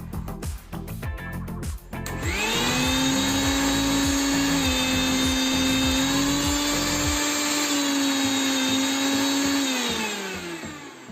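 Maharaja mixer grinder's universal motor switched on, spinning up quickly to a steady high-pitched whine, running for about seven seconds, then switched off and winding down with falling pitch. This is a test run of the mixer after repair, now working.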